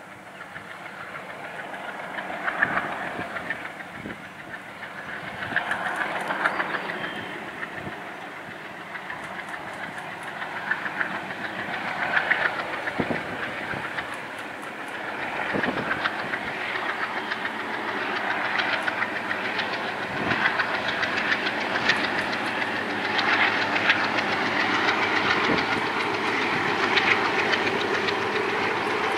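Diesel-hauled freight train, led by an MLW locomotive, approaching and growing steadily louder: the engine running under load and the wagon wheels clicking over the rail joints.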